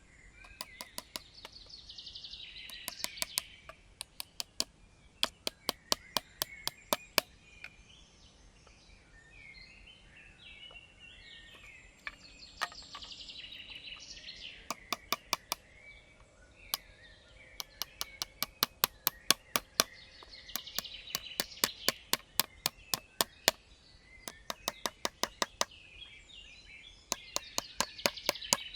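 Rapid sharp chopping strikes on wood, about four a second, in runs of a few seconds with pauses between. Birds chirp in the background.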